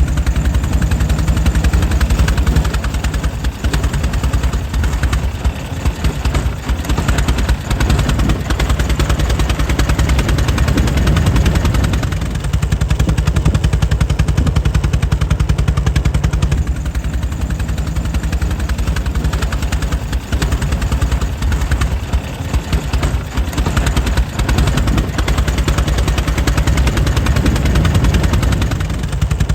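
The air-cooled engine of a 1904 Mitchell running steadily, its firing a rapid, even train of beats.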